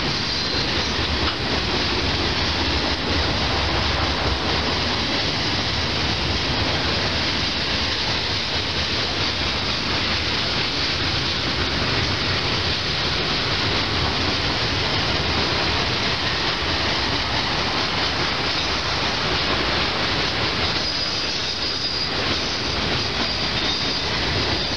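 Freight train cars rolling past: a steady rumble and clatter of steel wheels on the rails, with brief faint wheel squeal about half a second in and again near the end.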